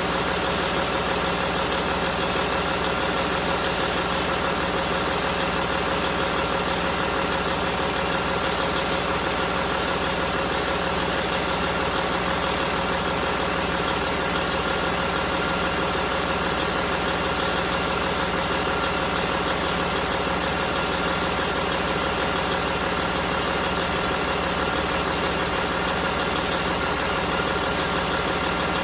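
Detroit DD15 inline-six diesel engine idling steadily at an even pitch.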